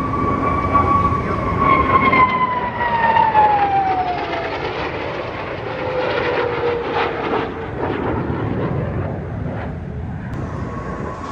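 Jet aircraft passing overhead: a loud rumble with a high engine whine that drops in pitch as it goes by, followed by a lower tone and some crackle.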